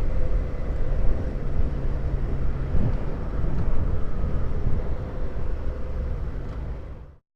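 Motorcycle engine running at a steady cruise under road and wind noise, fading out near the end.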